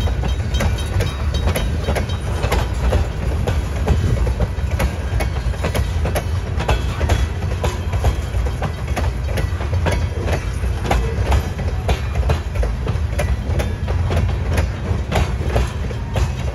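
Freight train of tank cars and covered hopper cars rolling past, its wheels clicking over the rail joints above a steady low rumble.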